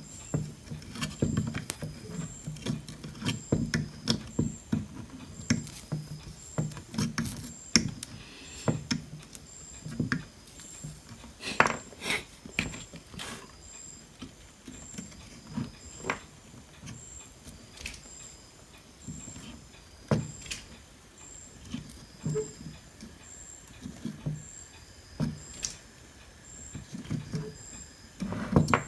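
Irregular clicks, taps and low knocks of hand tools and a circuit board being handled on a workbench, as a component is taken off an LG home theater power supply board. Behind it, a faint high-pitched tick repeats just over once a second.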